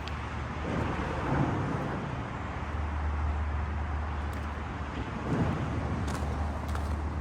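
Steady low rumble of outdoor road traffic, with vehicle noise swelling about a second in and again around five seconds in.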